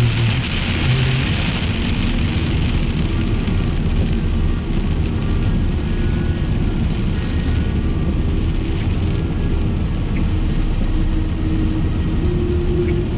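Car driving in rain, heard from inside the cabin: a steady engine and tyre rumble, with rain hiss on the car that fades over the first couple of seconds.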